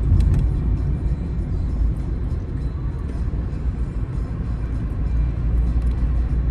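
Car driving on a road, heard from inside the cabin: a steady low rumble of engine and tyres, with scattered light ticks.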